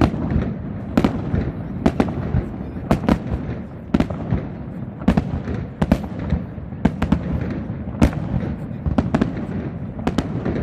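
Fireworks display: aerial shells bursting one after another in an irregular string of sharp bangs, roughly one to two a second, over a continuous low rumble.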